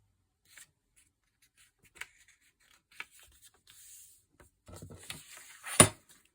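Sheets of paper being handled on a desk during hand bookbinding: a few light ticks and soft rustles, then a sharper single knock near the end.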